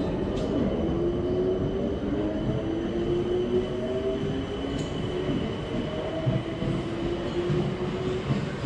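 Southern green-and-white electric multiple-unit train running into the platform: steady wheel-on-rail rumble and an electric motor whine that rises gently in pitch.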